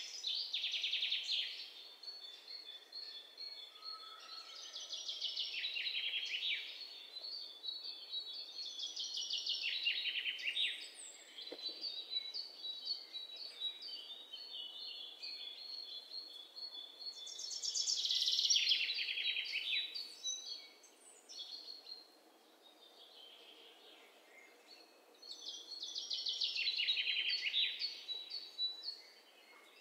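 Songbirds singing: a fast, pulsed trill that falls in pitch, repeated every several seconds and loudest a little past the middle, with thin high chirps in between.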